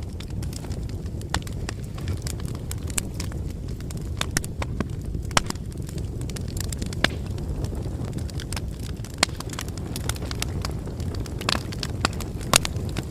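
Wood fire crackling: a steady low rumble of flames under many irregular, sharp pops and snaps, with a louder pop near the end.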